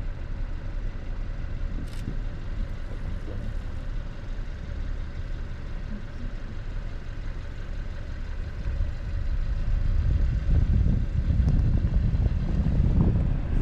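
Low, steady engine rumble, like a car idling, with a brief click about two seconds in. From about nine seconds, gusty wind noise on the microphone grows louder.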